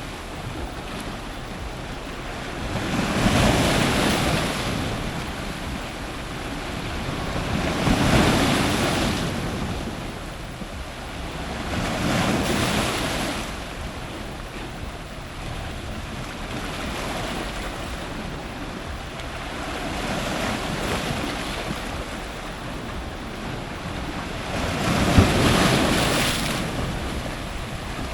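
Powerful ocean surf breaking close to the microphone in repeated surges, each swelling to a loud wash and falling back, a few seconds apart. The loudest wave breaks near the end with a sharp slap.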